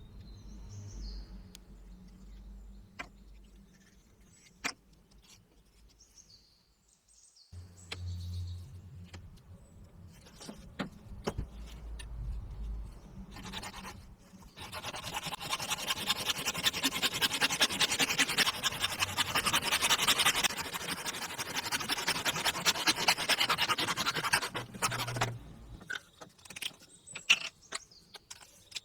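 Small electric power tool running under load for about ten seconds, starting about halfway in and stopping near the end, with scattered clicks and handling knocks before it.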